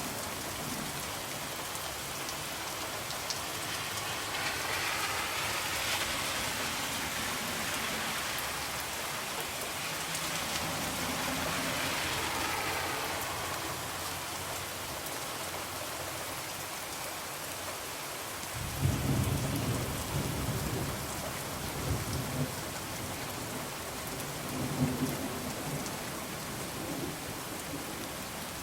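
Steady rain falling on a window, swelling twice in the first half. From about two-thirds of the way in, low rolling thunder rumbles under the rain, with a few louder peaks.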